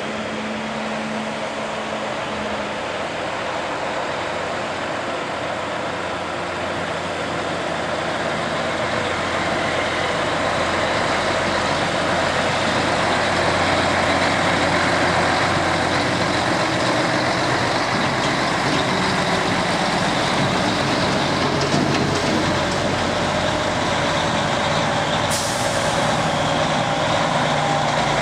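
Diesel truck engine running, growing louder from about ten seconds in, with a short hiss of air near the end.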